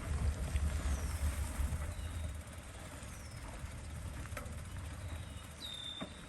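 Wind rumbling on the microphone over a faint wash of noise as a mountain bike rides along a wet path, with a few short high-pitched squeaks and a couple of small clicks.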